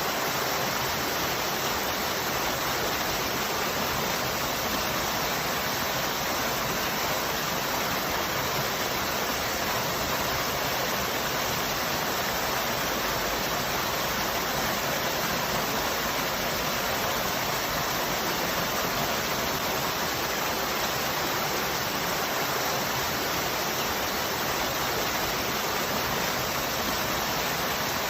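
Waterfall falling steadily: an even, unbroken rush of water.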